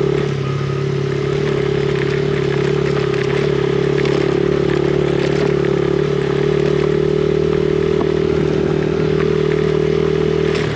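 Yamaha TTR50's small four-stroke single-cylinder engine running at a steady speed under riding, with scattered light clatter over the top. The engine pitch dips slightly just after the start and then holds even.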